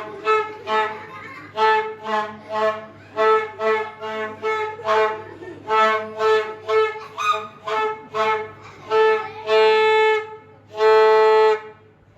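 A solo melodic instrument plays a tune of short, repeated notes with a bright, reedy tone, most on one pitch, then two longer held notes near the end.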